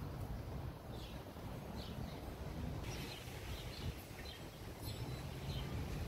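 Outdoor ambience: small birds chirping with short, high calls that come again and again, over a low, uneven rumble.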